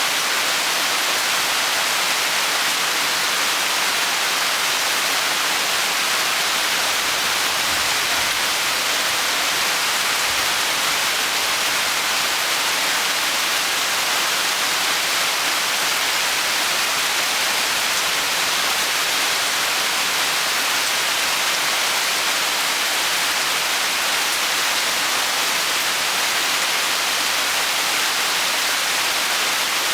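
Rain storm: rain falling steadily as an even, unbroken hiss.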